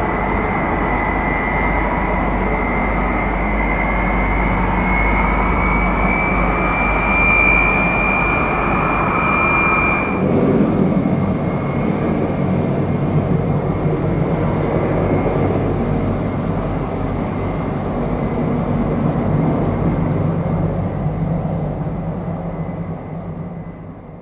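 Tu-134AK airliner's rear-mounted Soloviev D-30 turbofans at takeoff power: a loud roar with a high whistle over it that rises slightly in pitch. About ten seconds in the whistle drops away suddenly, leaving a rumbling roar that fades near the end.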